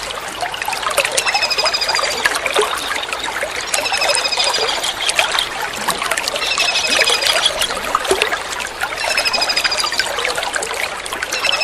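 Steady trickling water, with a kingfisher's short, rapid high trill repeating about every two and a half seconds, four times.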